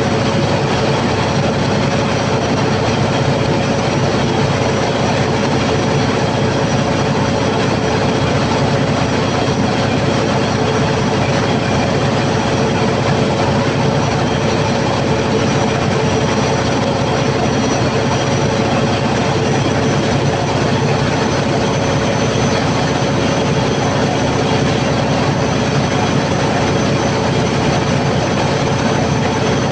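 Cummins KTA50 16-cylinder diesel generator set running steadily under a load test after a full overhaul, a loud constant roar with a steady hum.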